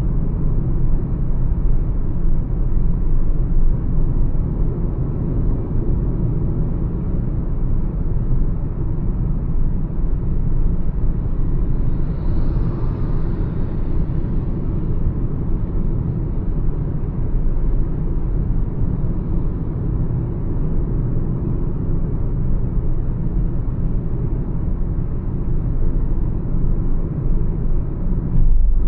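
Mahindra XUV 300 cruising on a highway: a steady low rumble of road and engine noise. A faint hiss swells and fades about twelve seconds in.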